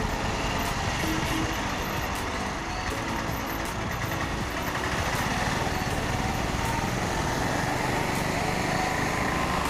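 Motorcycle running steadily at riding speed, its engine mixed with a dense, even rush of wind and road noise.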